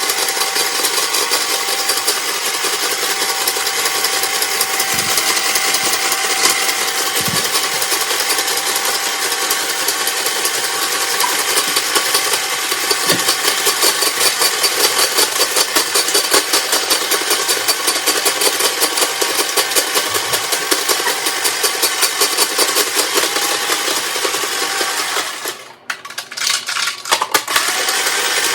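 Electric snow cone machine running, its motor-driven blade shaving ice cubes with a steady, fast grinding rattle. Near the end it cuts out, runs again in a few short spurts, then stops.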